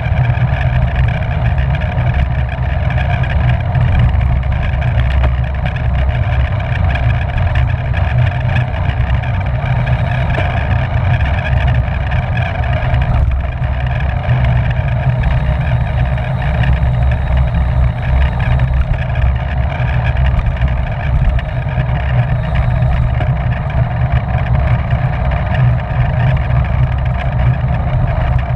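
Steady wind rumble buffeting the microphone of a camera riding on a racing bicycle at speed, with a fainter rushing hiss from the road and tyres above it.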